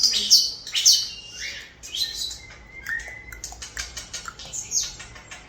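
European starlings chirping and whistling in quick, varied calls with sliding pitches, with a run of sharp clicks in the middle.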